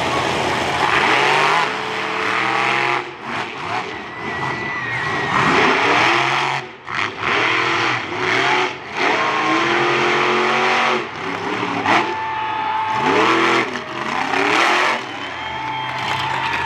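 Monster truck engines revving hard during a head-to-head race, the pitch sweeping up and dropping back again and again as the drivers get on and off the throttle.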